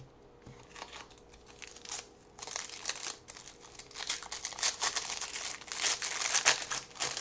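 Trading-card pack wrapper being handled, torn and crinkled. There are a few light clicks at first, then a crackling rustle from about two and a half seconds in that grows louder toward the end.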